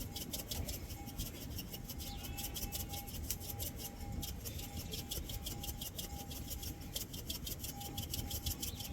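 A rapid, even scraping or rasping, several strokes a second, kept up steadily, with a faint thin steady tone coming and going behind it.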